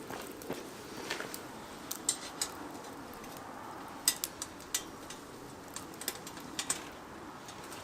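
Light metallic clicks and taps of cooking utensils against a grill, in small clusters over a faint steady background.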